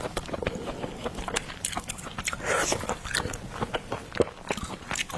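A person chewing tender lobster meat close to the microphone, with many short wet smacking and clicking mouth sounds.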